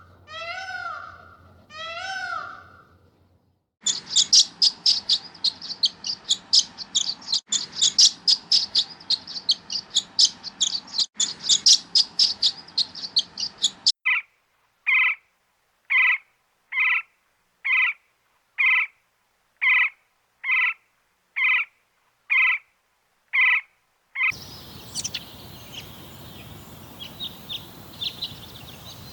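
A run of separate animal recordings. First come a few cat meows. Then about ten seconds of rapid high-pitched bird chirping, three or four notes a second, followed by a bird call repeated about once a second for ten seconds with silence between the calls. Near the end comes a steady outdoor background with faint scattered bird chirps.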